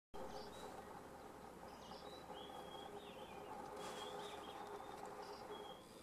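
Small birds chirping: short, high calls come every second or so over a faint steady background of outdoor noise.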